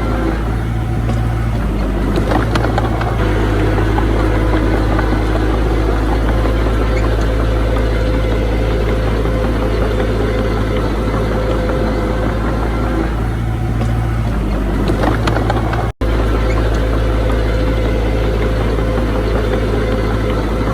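Diesel engine of earthmoving machinery (bulldozer or dump truck) running steadily, with a heavy low hum. The sound cuts out for an instant about three-quarters of the way through.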